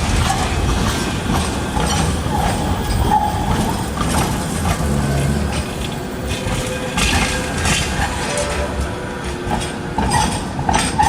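Tram running on its rails: a steady low rumble of wheels and running gear, with scattered clicks from the track.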